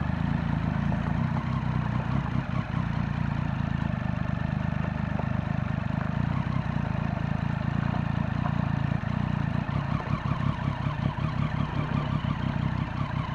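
Triumph Street Triple's three-cylinder engine running steadily, with a haze of wind noise over it.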